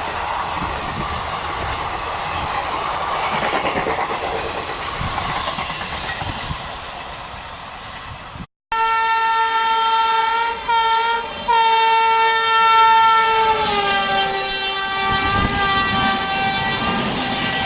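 Express train rushing past at speed with a rolling clatter of wheels, which stops abruptly. Then an Indian Railways WAP-7 electric locomotive's air horn sounds a long, loud chord, broken briefly twice, that drops in pitch as the locomotive passes, with the rumble of the oncoming train rising beneath it.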